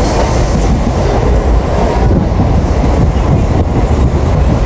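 Mumbai local passenger train running on the rails, a steady loud rumble of wheels and carriage heard from on board.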